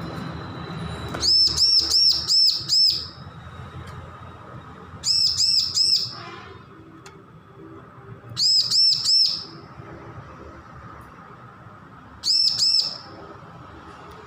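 Bar-winged prinia (ciblek) song: four short phrases of quick, repeated, high arched notes, a few seconds apart, with fewer notes in each phrase (five, then four, three and two).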